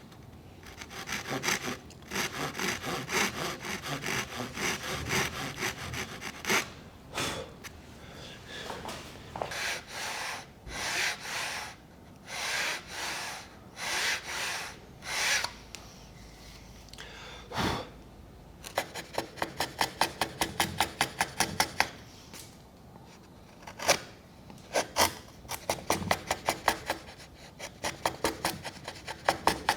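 Hand tool cutting a groove in Japanese cedar in repeated rasping strokes. It starts with a run of quick strokes, moves to slower strokes of about a second each, and then comes back to fast runs of short strokes.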